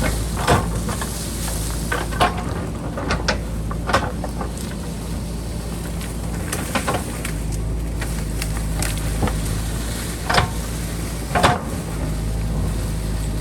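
JCB backhoe loader's diesel engine running steadily while digging, with a handful of sharp knocks and clatters from the bucket striking rock and earth.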